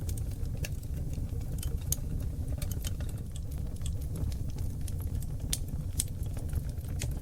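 Wood fire of oak logs burning in a fireplace: a steady low rumble of flames with frequent sharp crackles and pops scattered irregularly, several a second.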